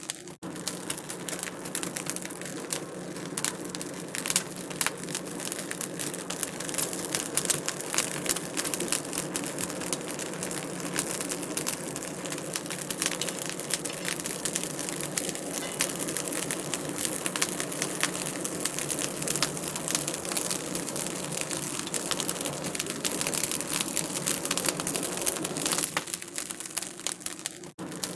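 Wood fire in a fireplace crackling and popping steadily, a dense run of small snaps.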